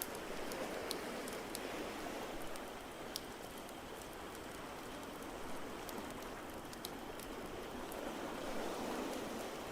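Crackling fireplace, with scattered sharp pops and snaps, over a steady wash of ocean waves that swells near the start and again near the end.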